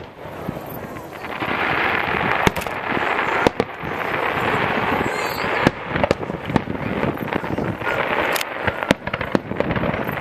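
Fireworks display: a dense, continuous crackle with sharp bangs of shells bursting, about one every second or so.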